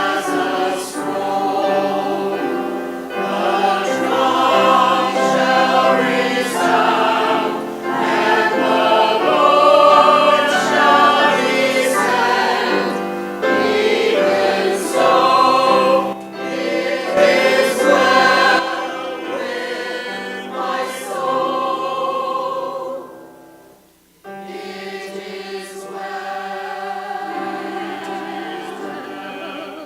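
Church choir singing an anthem in several parts. The singing drops away briefly about three-quarters of the way through, then resumes.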